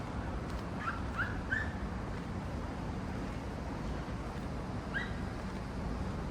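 Short rising animal calls, three in quick succession about a second in and one more near five seconds, over a steady low outdoor rumble.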